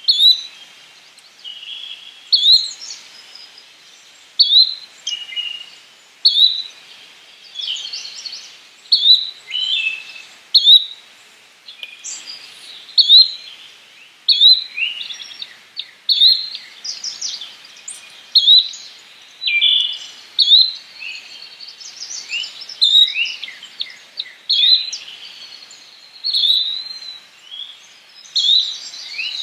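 Yellow-bellied flycatcher calling: short, sharp notes repeated about every one and a half seconds, with fainter chirps between them.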